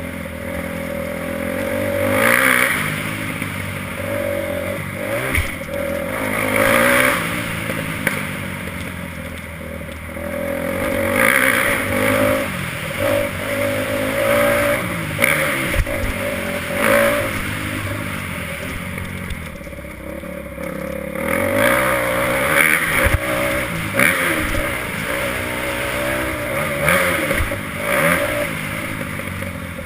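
Motocross bike engine being ridden around a track, revving up and down over and over, its pitch rising and falling every few seconds as the throttle is opened and shut.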